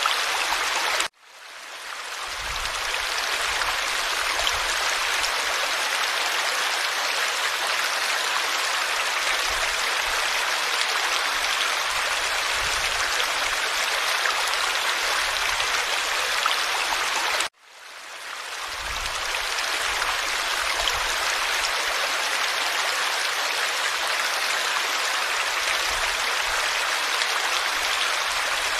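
Forest stream flowing and babbling as a steady rush of water. The sound cuts out abruptly twice, about a second in and again a little past halfway, and each time fades back up over a couple of seconds at a recording splice.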